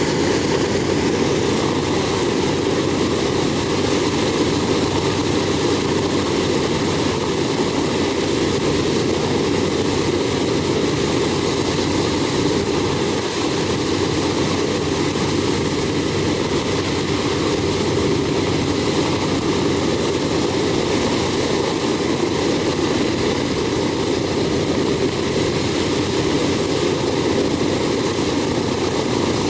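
B-17 bomber's Wright Cyclone nine-cylinder radial engines running steadily, propellers turning.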